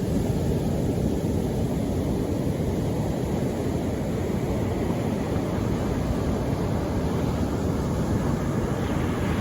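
The sea's surf as a steady low rush of noise, with no single wave standing out.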